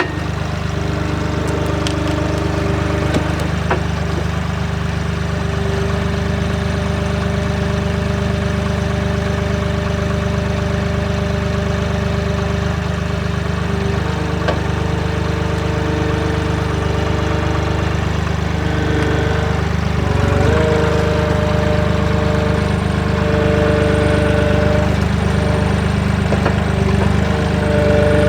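Tractor engine running steadily, with a droning hum and a few steady tones above it that change pitch about 14 and 20 seconds in.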